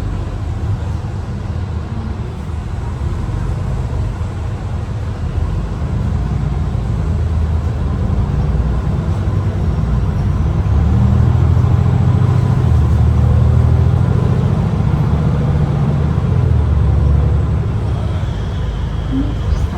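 MAN ND323F double-decker bus heard from on board, its engine and drivetrain running while under way. The low rumble builds from about six seconds in and is loudest through the middle as the bus pulls harder, easing a little near the end.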